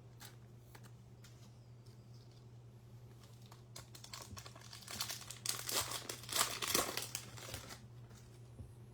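A Topps Fire baseball card pack's foil wrapper being torn open and crinkled: a few light clicks at first, then loud crinkling and tearing from about halfway through for about three seconds, over a low steady hum.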